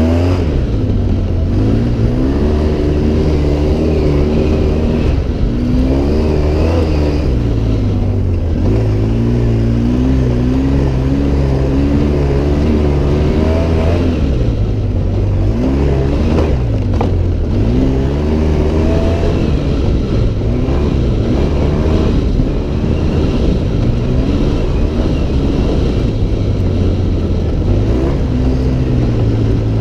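Off-road vehicle engine running under load, its pitch rising and falling over and over as the throttle is worked and eased.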